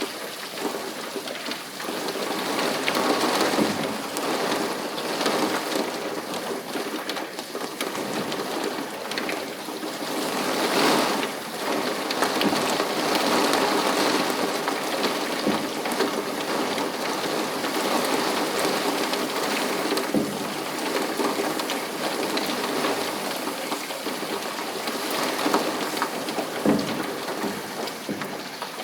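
Steady rain falling and pattering on surfaces, an even hiss throughout, with a few sharper louder drops, one about twenty seconds in and another near the end.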